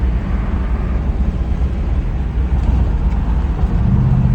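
Car driving, heard from inside the cabin: a steady low engine and road rumble, with a low droning note coming in near the end.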